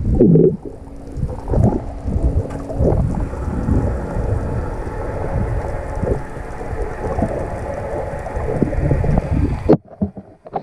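Wind buffeting the microphone with a low, uneven rumble over rushing water, cutting off suddenly near the end.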